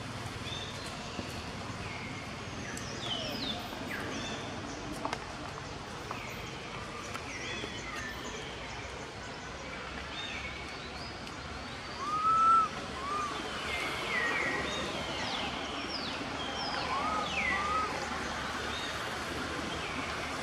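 Outdoor ambience: a steady background hiss with many short bird chirps scattered through, mostly falling in pitch. A louder pair of short arched squeaks comes about twelve seconds in, and more come near seventeen seconds.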